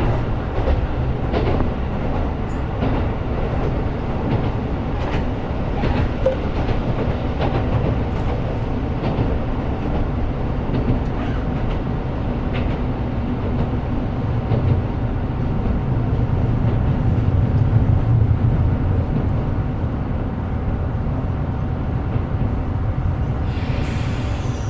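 Running sound inside a KiHa 125 diesel railcar: a steady low drone of engine and wheels, with wheel clicks over the rail joints that come most often in the first several seconds. The drone swells about two-thirds of the way through, and a short hiss comes near the end.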